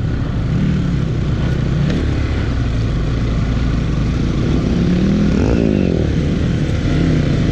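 Motorcycle engine running steadily under load on a rough dirt track, its pitch rising and then falling briefly a little past the middle.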